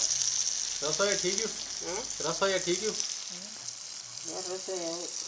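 Onions and tomatoes frying in a kadhai over a fire, a steady high sizzle throughout. A person's voice speaks a few short phrases over it.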